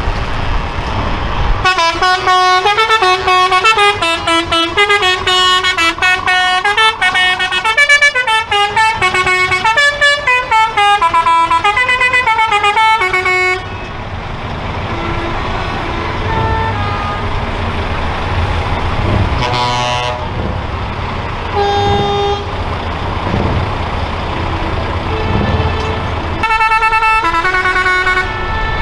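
Trucks' horns over diesel engine rumble. A musical multi-tone horn plays a stepped melody for about twelve seconds, then engines run with several short horn toots and a longer horn blast near the end.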